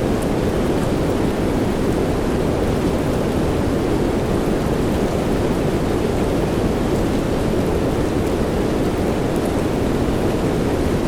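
Steady soft rain sound blended into a continuous low rushing hiss, even and unbroken, with a few faint high drop ticks.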